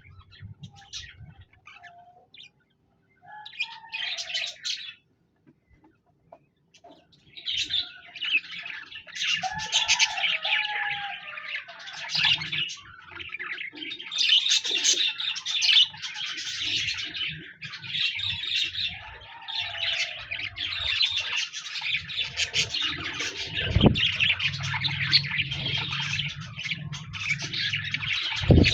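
Budgerigars singing: scattered short chirps at first, then from about seven seconds in a dense, continuous warbling chatter of several birds. A couple of sharp knocks come near the end.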